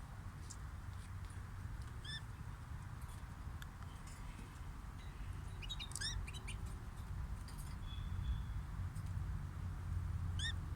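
Small cage birds chirping: a few short, separate chirps about two seconds in, a quick run of chirps around six seconds, and another pair near the end, over a steady low hum.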